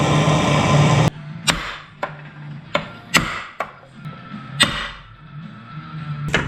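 A steady noise cuts off suddenly about a second in. It is followed by about seven sharp knocks at uneven spacing, typical of a tool striking parts while a chainsaw is being taken apart.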